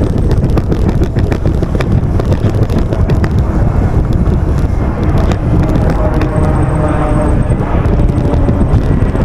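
Wind buffeting the microphone of a moving bicycle, with a steady stream of small clicks and rattles from the bike on an uneven road.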